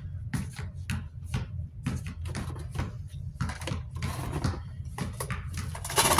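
Irregular clicks and knocks of desk-fan parts being handled and cleaned, with a brief scrubbing or wiping noise near the middle, over a low steady hum.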